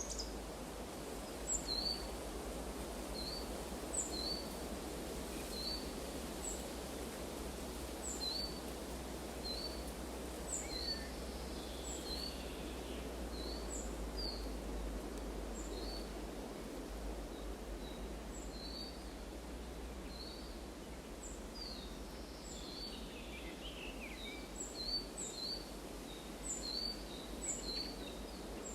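Forest ambience: a bird repeats short, high chirps about once a second, and a couple of brief falling calls come in from time to time. Underneath is a steady low rushing background.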